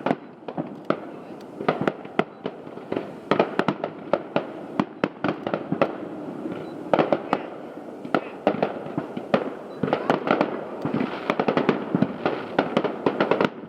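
Aerial fireworks show: a rapid, irregular string of booms and pops from bursting shells, several a second, growing denser in the second half.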